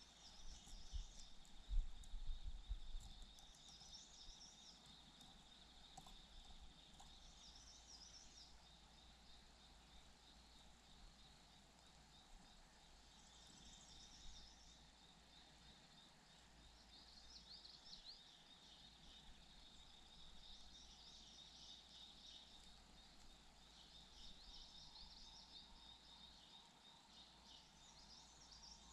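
Small birds chirping faintly in short, repeated clusters every few seconds over a steady high thin tone, with a few low bumps near the start.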